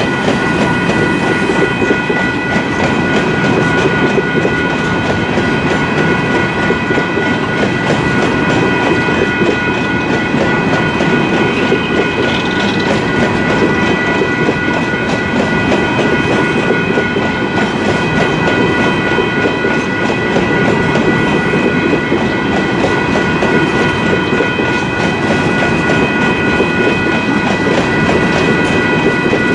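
Freight train rolling steadily past at a grade crossing, its wheels clattering over the rail joints. A crossing bell rings continuously over it as a steady high ringing.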